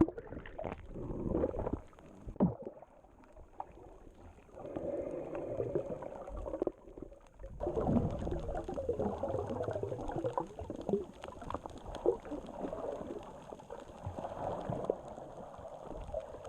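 Seawater sloshing and gurgling right at the microphone, uneven and bubbly, with scattered muffled knocks.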